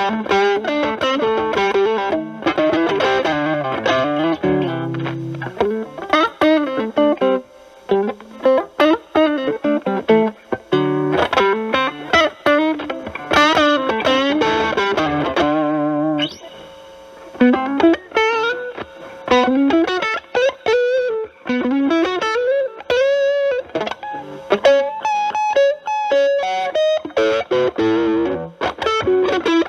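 Electric guitar, a Stratocaster with single-coil pickups, played through a Proco RAT2 distortion stacked with an Ibanez TS9 overdrive into a Marshall Valvestate amp, with the guitar's volume knob rolled back so the distortion cleans up to a lighter crunch. It plays improvised lead lines: quick runs, string bends and vibrato, with a brief pause about 16 seconds in.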